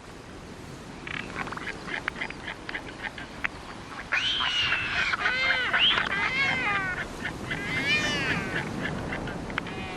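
Seabirds calling at a colony: a string of short wailing calls that rise and fall in pitch. The calls grow louder and come thicker from about four seconds in.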